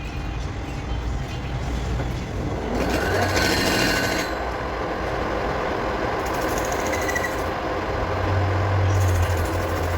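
Heavy machinery running steadily, with a harsher, louder stretch of a second or so about three seconds in and shorter ones near seven and nine seconds.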